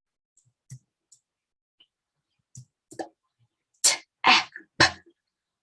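Faint clicks, then a woman's voice sounding out three separate letter sounds in quick succession, /t/ /a/ /p/, a phonics segmentation for blending the word "tap".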